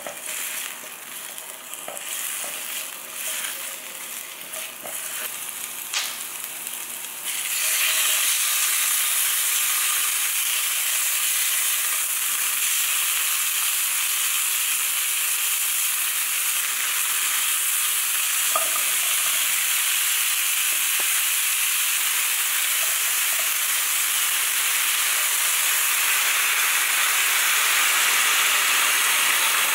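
Food frying in a hot pan and being stirred with a silicone spatula: a lighter sizzle with scattered scrapes and taps, then about seven seconds in a loud, steady sizzle starts suddenly as chicken pieces fry, and it keeps up while potato and carrot chunks are stirred in.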